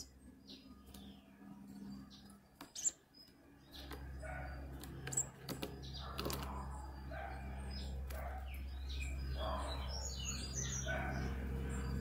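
Small tiê tanagers at a halved orange: short high chirps, wing flutters and sharp clicks, the loudest a couple of seconds in and again about five seconds in. A low steady hum comes in about four seconds in.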